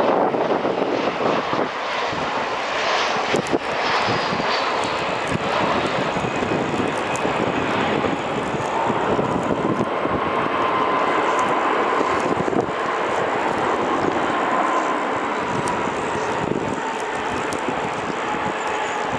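Airliner engines running, a steady loud rushing noise with a faint whine held for several seconds in the middle.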